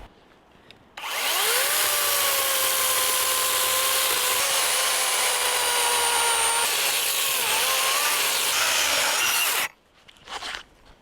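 A power tool's motor spins up quickly, runs loud and steady under load for about nine seconds, its pitch sagging slowly and wavering once near the end, then stops abruptly.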